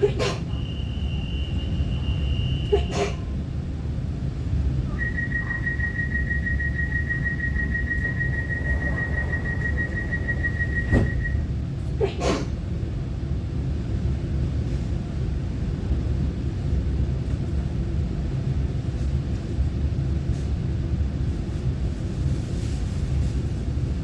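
Door-closing warning of an EMU900-series electric train: a steady high beep for about two and a half seconds, then a rapid pulsing beep for about six seconds, with sharp knocks as the tones stop and one more about a second later as the doors shut. A steady low rumble of the train runs underneath.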